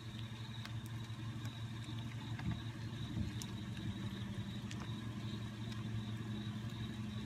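A steady low mechanical hum with scattered faint ticks.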